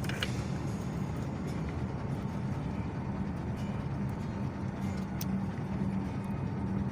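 Steady engine and tyre noise of a car driving along a road, heard from inside the cabin, with a couple of faint clicks.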